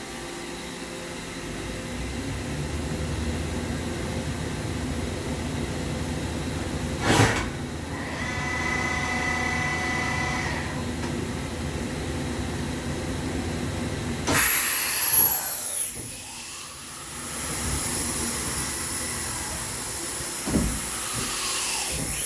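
Mazak FH-6000 horizontal machining center running a pallet change. A steady mechanical hum builds, with a knock about seven seconds in and a brief whine of several tones just after. From about fourteen seconds a loud, high hiss starts and stops.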